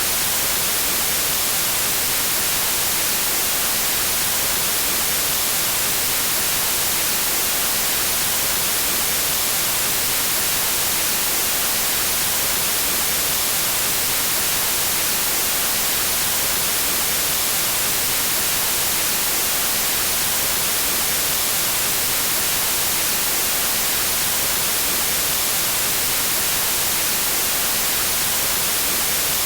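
Steady, unchanging white noise: an even hiss across the whole range, brightest in the treble.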